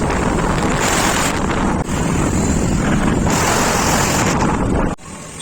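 Heavy wind buffeting the microphone while riding along a road, with vehicle and road noise underneath, swelling and easing in gusts. It cuts off suddenly about five seconds in to quieter traffic sound.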